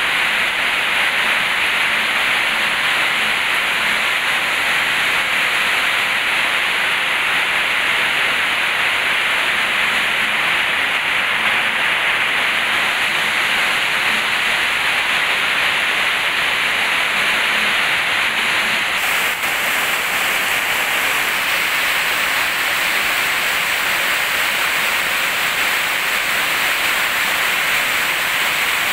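Heavy tropical rain pouring down steadily as a dense, even hiss. The hiss turns brighter about two-thirds of the way through.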